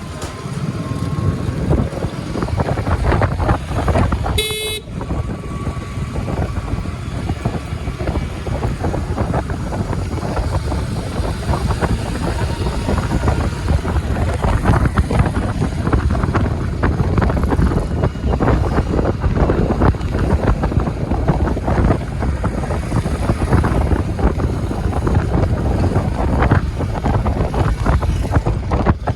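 Wind buffeting and road noise from riding an electric scooter in traffic, with one short horn toot about four seconds in.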